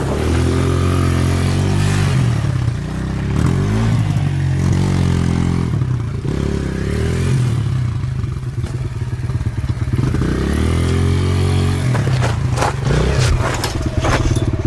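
Dirt bike engine running and revving up and down over and over. A few sharp knocks come about twelve seconds in.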